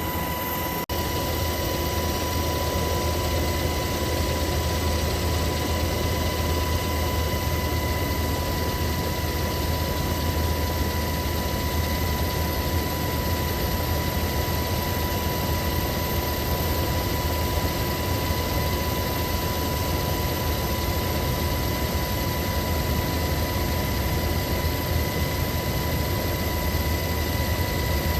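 A steady engine drone: a low hum under a constant high whine, with a brief dip about a second in.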